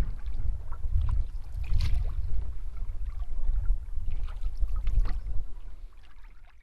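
Water gurgling and trickling around a paddled canoe, with short splashy streaks, over a low wind rumble on the microphone. It fades out near the end.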